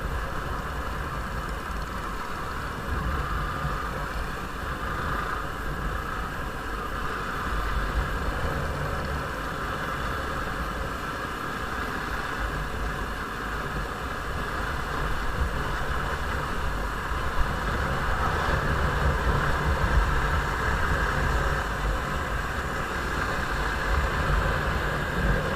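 Motorcycle running steadily on the move, with wind and road noise; it gets a little louder about two-thirds of the way through.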